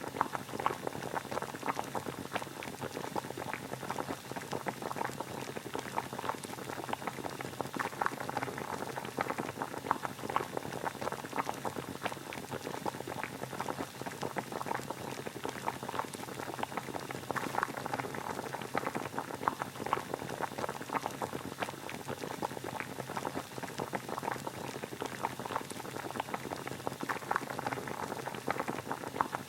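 Water boiling steadily: a dense, even bubbling and crackling that does not change.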